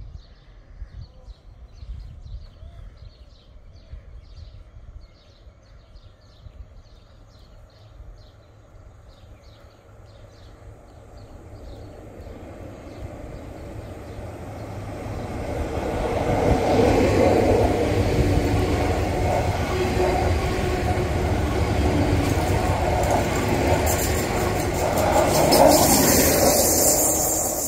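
SNCF electric multiple-unit passenger train approaching and passing close alongside the platform. Its wheel and rail noise builds from about twelve seconds in, stays loud, and is loudest near the end as the train draws level.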